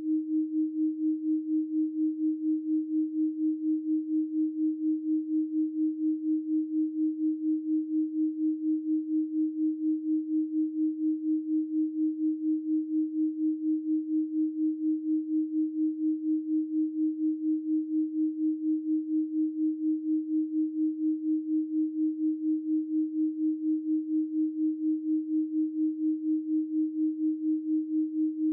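Steady 312 Hz pure sine tone, pulsing evenly in loudness about four times a second.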